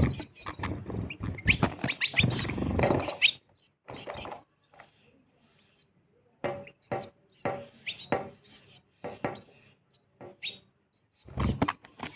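Sparrows chirping: a dense, louder burst of chirps over a low noise for the first three seconds or so, then scattered short chirps with pauses between them.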